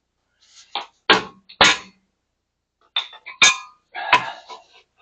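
About six sharp metallic clanks and knocks of metal tools and parts being handled and set down, each with a short ring; the two loudest come between one and two seconds in.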